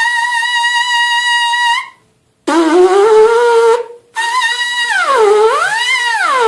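Trumpet mouthpiece buzzed on its own. First comes one high note held steady for about two seconds. After a short break, a lower note slides upward. After another brief break come smooth sirens, the pitch gliding down and back up about an octave, twice.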